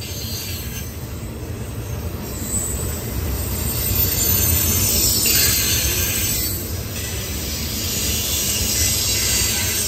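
Train rolling past on the rails: a steady low rumble from the wheels, with a high-pitched hiss from the wheels on the rail that grows louder a few seconds in.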